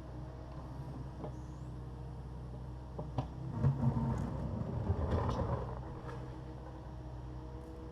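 Takeuchi TB260 excavator's diesel engine running steadily, with a louder stretch of knocks and scraping from about three to six seconds in as the bucket works broken concrete.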